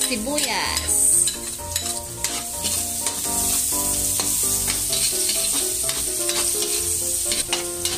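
Chopped onion and garlic sizzling in hot oil in a wok, stirred with a spatula that scrapes across the pan.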